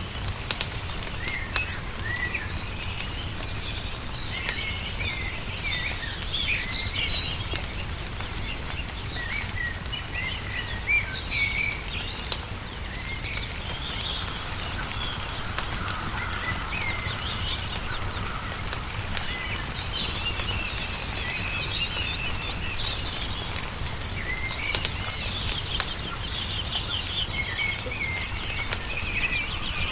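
Wood fire crackling, with a few sharper pops, under the steady chirping of small songbirds. A low, steady rumble runs beneath.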